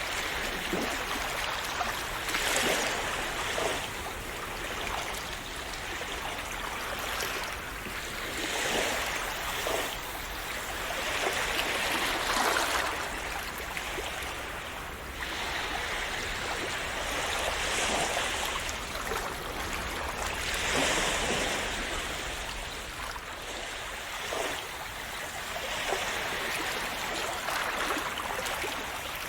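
Calm sea waves splashing and lapping, swelling and easing every few seconds in an uneven rhythm.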